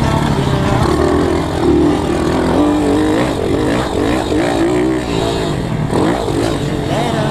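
Pit bike engine revving up and down repeatedly as the bike is ridden hard, its pitch climbing and dropping with each burst of throttle.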